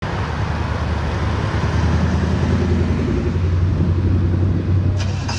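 A car engine running steadily close by, low-pitched, getting a little louder over the first couple of seconds. A brief hiss comes near the end.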